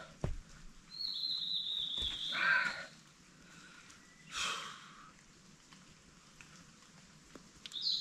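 A forest bird calling: one long, high whistled note about a second in that drifts slightly down, and a short high call near the end. A couple of brief soft rustles fall in between.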